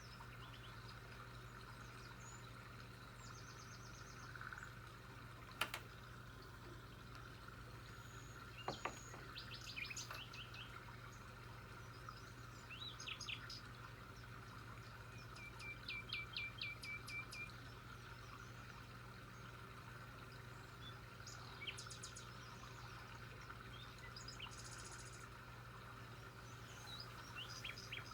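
Small birds chirping faintly in scattered short calls and trills, with a quick run of about eight notes about halfway through, over a steady low hum.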